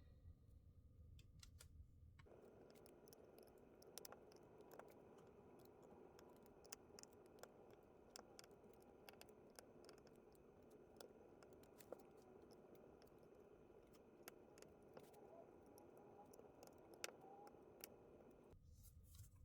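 Near silence: faint room noise with scattered light clicks and taps.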